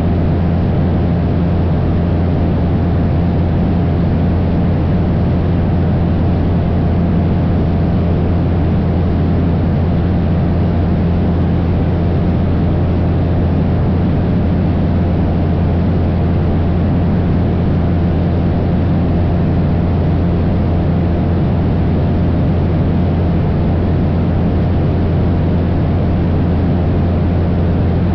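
Cessna 172 single-engine light airplane in flight, its piston engine and propeller droning steadily and loudly with no change in power.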